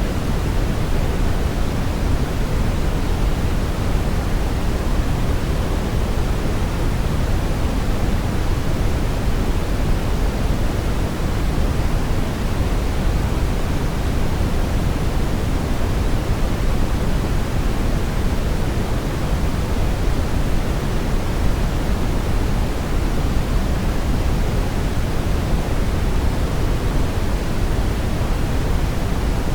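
Brown noise: a steady, even rumbling hiss weighted toward the low end, with no changes or events.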